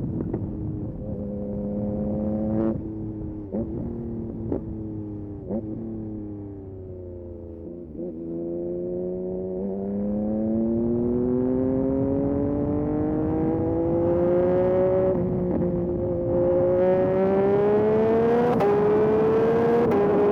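Yamaha MT-09 SP's three-cylinder engine through a Dominator aftermarket exhaust, on the move. It slows with its pitch falling, with a few sharp cracks along the way. Then, from about eight seconds in, it accelerates hard, its pitch climbing and briefly dipping at each upshift.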